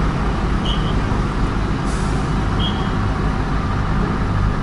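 Heavy goods truck's diesel engine running steadily at low speed as the truck drives slowly into a ferry. Two short high chirps come about a second and two and a half seconds in.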